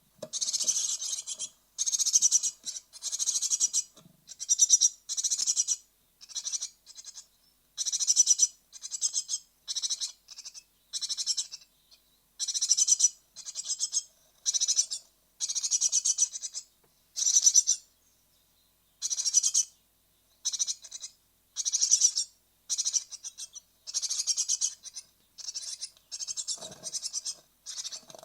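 Great tit nestlings on the point of fledging, giving high, hissing begging calls in bursts about once a second.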